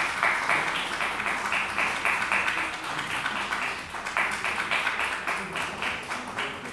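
A small audience applauding, a steady run of hand claps that thins out near the end.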